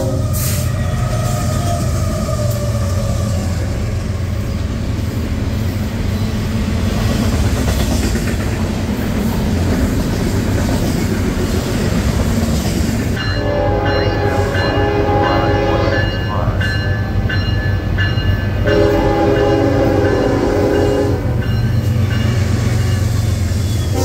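Double-stacked intermodal freight train rolling past with a steady, loud rumble of wheels on rail. A train horn blows twice: about three seconds long a little past halfway, then about two seconds long later on.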